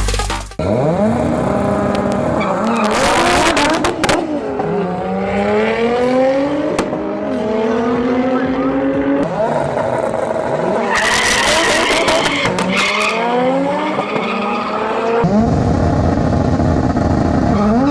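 Car engines accelerating hard, each climbing in pitch and dropping at every gear change, with two bursts of tyre squeal about 3 seconds and 11 seconds in.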